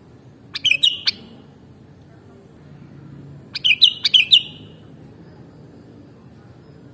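Sooty-headed bulbul (kutilang) singing two short phrases of quick, sharp whistled notes, about three seconds apart.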